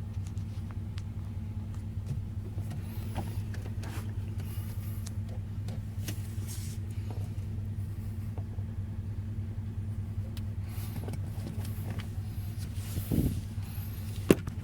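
Car engine running with a steady low hum, with a few faint clicks, a brief thump about thirteen seconds in and a sharp click near the end.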